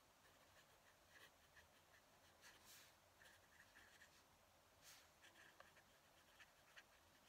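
Fountain pen nib scratching faintly across paper in short, irregular strokes.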